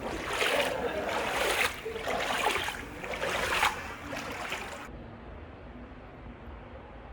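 Water sloshing and splashing in surges about once a second, then a sudden cut near five seconds in to a faint, dull steady hiss.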